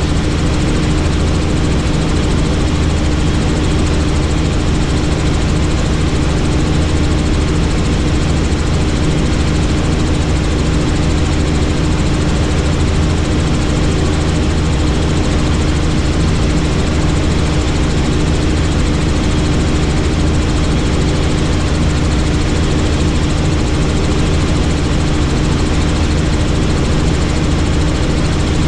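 Helicopter in cruising flight: a loud, unchanging drone of rotor and engine, with a steady hum in it.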